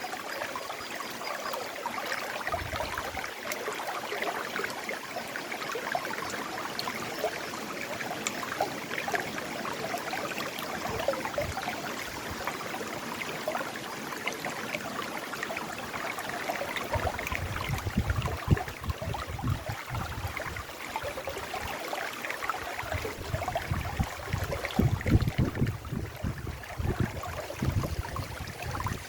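River water flowing steadily over rocks, an even rushing and gurgling. In the second half, irregular low rumbles on the microphone come and go.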